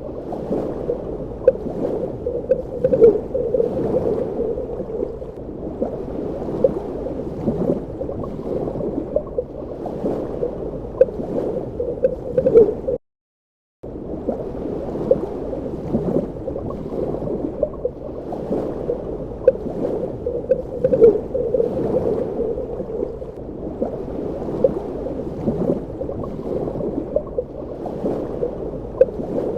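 Underwater ambience: a muffled, steady wash of water with scattered small gurgling pops and clicks. The sound cuts out completely for about a second near the middle, then resumes.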